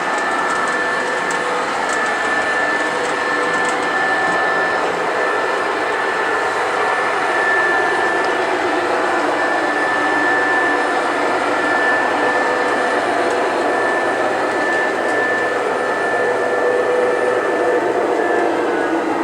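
O scale model train running on the layout's track: a steady whir of motor and wheels with a high whine held throughout.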